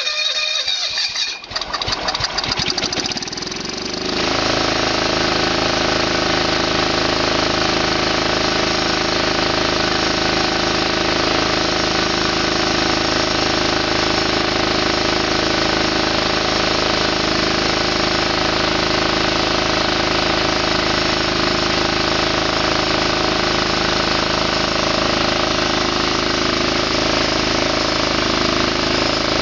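John Deere 175 lawn tractor's FC420V single-cylinder engine starting: it runs unevenly for the first few seconds, then settles at about four seconds in to a steady, even run.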